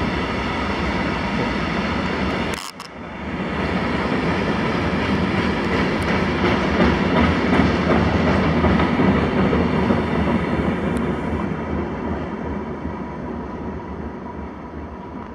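Container freight wagons rolling past on the rails with a steady rushing wheel noise. There is a sudden short break about three seconds in, then the running noise builds again and slowly fades away.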